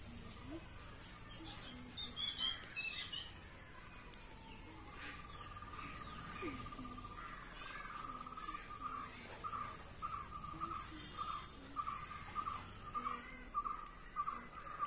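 A bird calling. A few high chirps come first, then a steady trilled note starts about five seconds in. Near the middle it breaks into short repeated notes, about two a second, that keep going.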